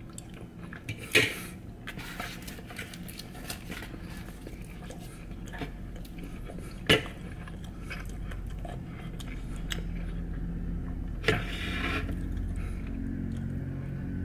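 A person chewing food, with small mouth and handling clicks and three sharp knocks: about a second in, about seven seconds in and about eleven seconds in.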